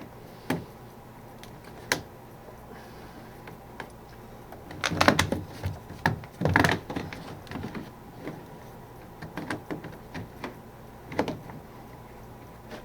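Hard plastic vent parts being pushed and worked together onto a portable air conditioner's exhaust hose: scattered clicks and knocks, with two louder clusters of rattling about five and six and a half seconds in.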